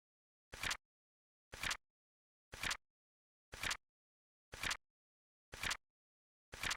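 Flip clock sound effect: a short flap-flip clack about once a second, each one a quick double or triple tap, with dead silence between.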